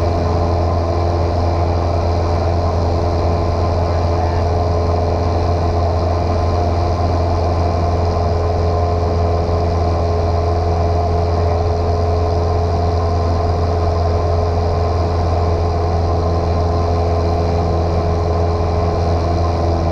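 Single-engine light airplane's piston engine and propeller droning steadily in flight, heard from inside the cabin, with a strong low hum and an even pitch throughout.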